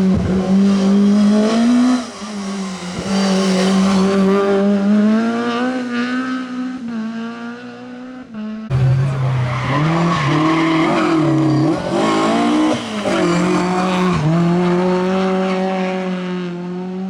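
Rally car engines running hard on a stage, their pitch rising and falling as the cars accelerate, change gear and lift off. About halfway through the sound cuts sharply to another car whose engine starts lower and climbs.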